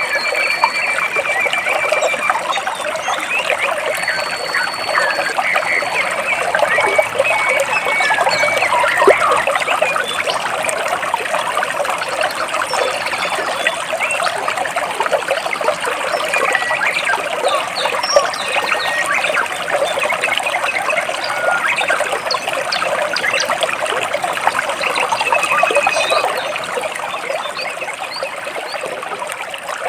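Stream water trickling and splashing steadily over rocks, with a few high bird calls, including a short rapid trill near the start.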